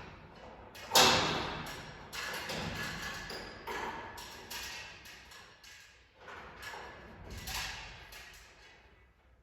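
A series of separate knocks and thuds, each with a short ringing tail. The loudest comes about a second in, and smaller ones follow every second or so.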